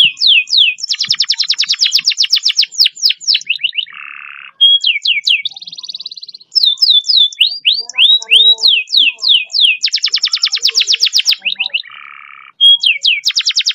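Canary singing a long, fast song: repeated high whistled notes sliding downward, quick trilled rolls, and twice a short buzzy note lower down.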